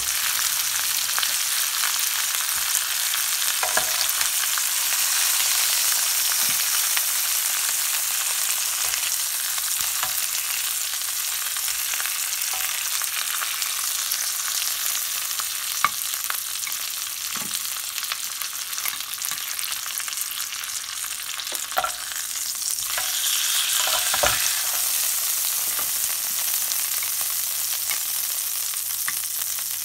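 Marinated pork chops sizzling in a hot ridged grill pan, a steady hiss, with a few sharp clicks of metal tongs against the pan as the chops are turned and lifted out.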